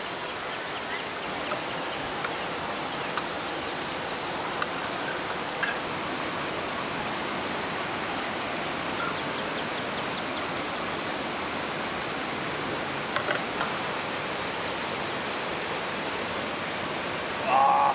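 Mountain valley stream rushing steadily, swollen with monsoon rain, with a few faint ticks over it. A brief louder sound cuts in near the end.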